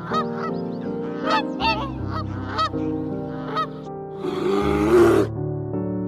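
Waterfowl honking in short repeated calls over steady background music, followed about four seconds in by a single loud, harsh animal call lasting about a second.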